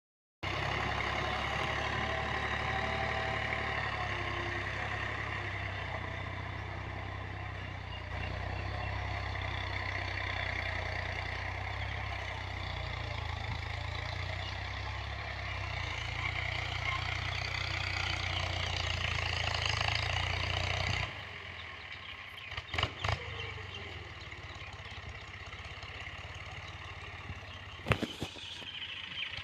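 Al Ghazi 65 hp tractor's diesel engine running steadily while pulling a cultivator through a field. About two-thirds of the way in, the deep engine rumble drops away and the sound goes quieter, with a few sharp clicks.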